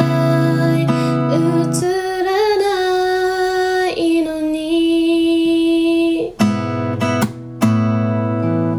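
Acoustic guitar and a singing voice: strummed chords that stop about two seconds in while a long note is held, then the chords come back near the end.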